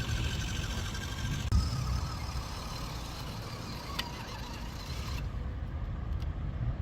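Small electric RC 6x6 truck driving, its motor and gearbox giving a wavering whine over a low rumble. The whine stops about five seconds in, and there is a single sharp click just before.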